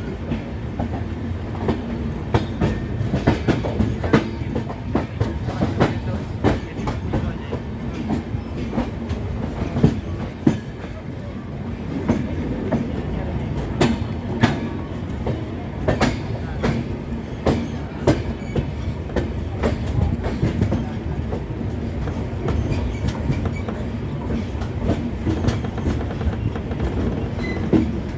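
Passenger express train running on the rails: a steady low rumble with irregular sharp clacks of the wheels over rail joints throughout.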